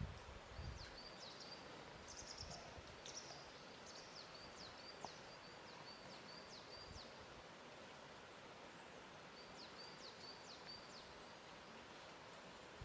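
Faint lakeshore ambience: a steady soft hiss of lapping water, with small birds repeating quick high chirps in clusters through the first half and again later on.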